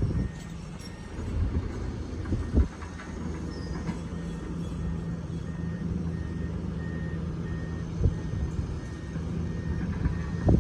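Excavator diesel engine running steadily, with a few sharp knocks from the machine at work. From about halfway through, its travel alarm beeps in a steady series of short high beeps.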